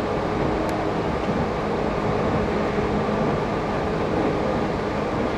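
Tobu Railway commuter train running at speed, heard from inside the car: a steady rumble and rush of wheels on rails, with a few steady humming tones over it.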